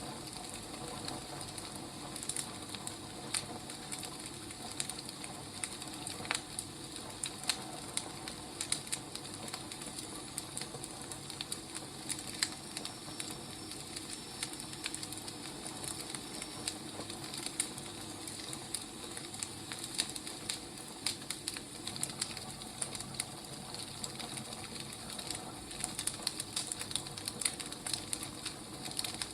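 Wood fire burning: a steady soft hiss with irregular sharp crackles and pops from the firewood.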